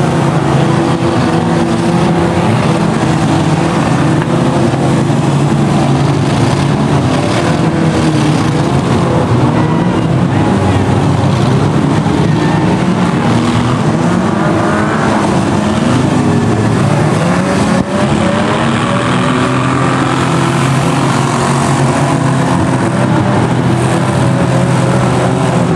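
Several pre-1970 banger cars' engines revving at once in a demolition derby, their pitches rising and falling and overlapping.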